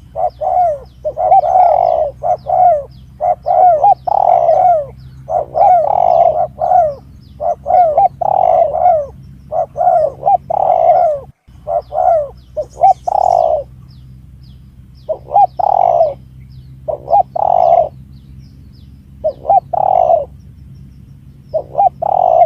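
Spotted doves (tekukur) cooing, clusters of arching coos repeated over and over with short pauses, played as a dove lure call. Faint high chirps of small birds and a low steady hum run underneath.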